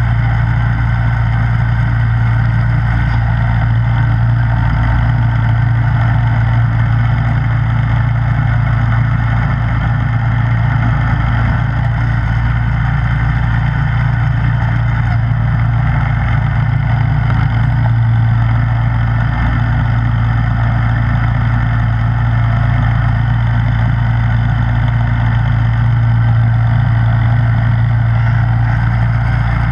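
Snowblower engine running steadily at a constant speed: an even, unchanging hum.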